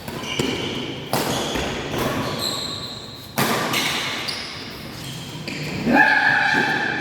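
Badminton rally: a few sharp racket hits on the shuttlecock, each echoing around a large sports hall, with short high squeaks between them.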